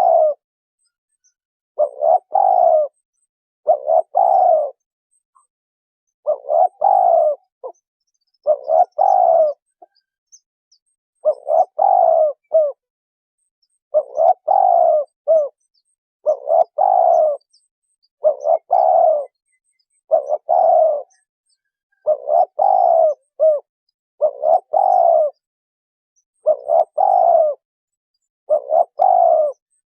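Spotted dove cooing: a low, rolling coo phrase repeated about every two seconds, each phrase under a second long with short gaps of silence between.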